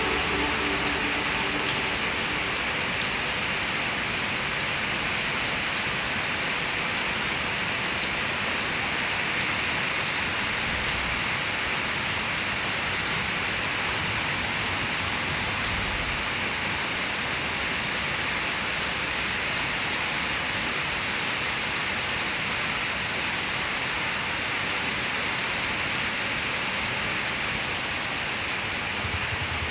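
Steady rain falling and pattering on a surface, an even hiss of drops.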